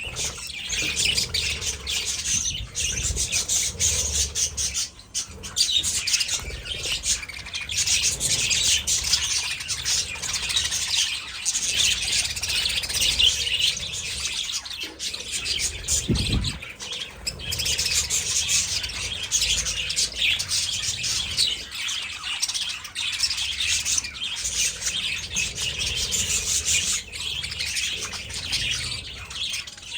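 A flock of budgies chattering and chirping continuously, with squawks mixed in. A single low thump sounds about halfway through.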